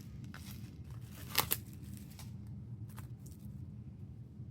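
Paper and plastic album contents being handled: a few brief rustles and crinkles, the loudest about a second and a half in, over a low steady hum.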